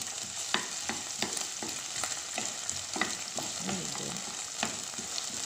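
Chopped onion and garlic sizzling in hot oil in a frying pan, with a steady hiss. A wooden spoon scrapes and knocks against the pan every half second or so as they are stirred.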